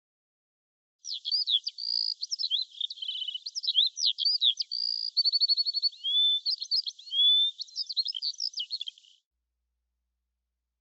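A songbird singing a long, varied song of quick chirps, whistled notes and rapid trills, starting about a second in and stopping about a second and a half before the end.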